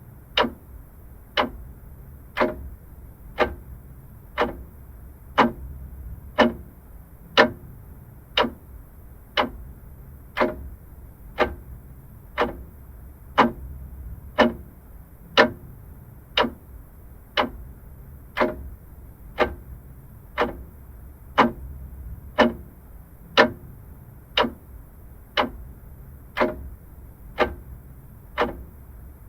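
Vintage mechanical clock ticking steadily, one sharp tick about every second.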